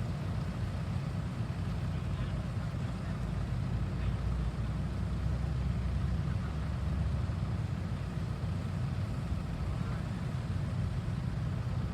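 Hydraulic excavator's diesel engine running steadily, a continuous low drone.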